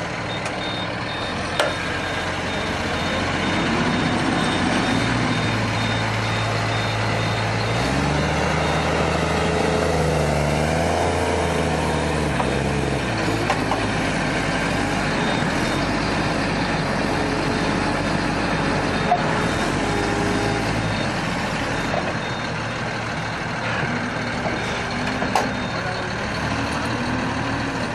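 Large vehicle engine running under load. It revs up about eight seconds in and eases back about five seconds later. A faint high repeated beeping sounds through the first ten seconds or so.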